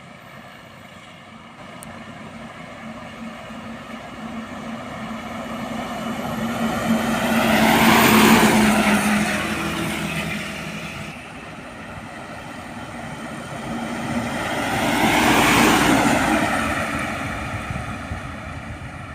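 Two trucks driving past one after the other. Each engine swells to a peak as it passes and then fades, its pitch dropping, the first a little louder than the second.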